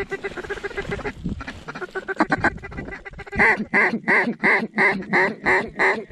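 Mallard duck call blown by a hunter: quick chattering notes, then a loud series of about eight evenly spaced quacks, roughly three a second, calling to circling mallards to draw them in to the decoys.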